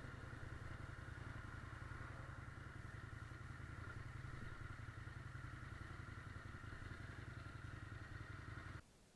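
Motorcycle engine running steadily with a rapid low pulsing, stopping abruptly near the end.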